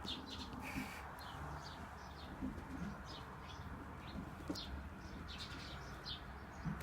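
Birds chirping, short high calls repeated several times a second, with a few low pigeon coos.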